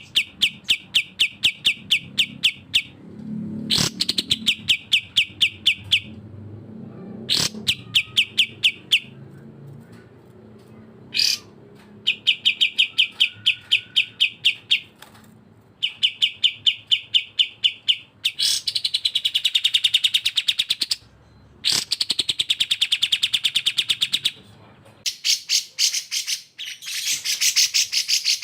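Bulbul song of cucak jenggot (grey-cheeked bulbul) and kapas tembak (olive-winged bulbul), as used for training songbirds. It comes as bursts of fast, evenly repeated sharp notes, each burst lasting two to three seconds. From about two-thirds of the way in, harsher, buzzier phrases take over.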